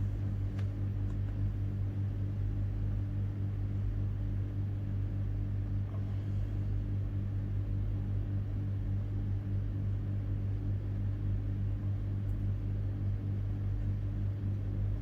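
A steady low hum, even in level, like a running motor or electrical hum.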